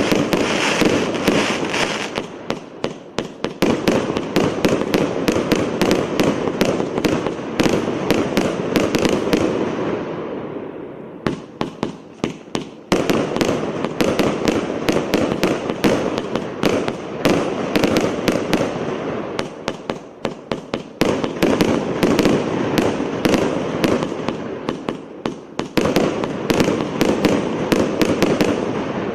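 Multi-shot fireworks cake firing rapid volleys, many sharp shots a second over a dense crackle of bursting stars. The firing thins out briefly twice, about a third and two thirds of the way through, then picks up again.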